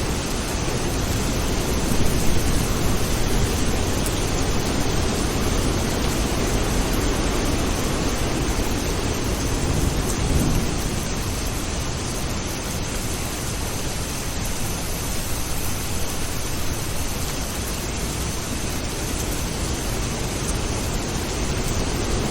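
Steady heavy rain with a low rumble of thunder through the first half, which fades after about ten seconds.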